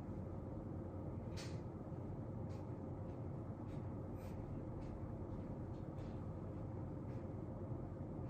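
Steady room noise with a faint hum, over which come faint scattered ticks and short scratches from desk work such as a pen on paper.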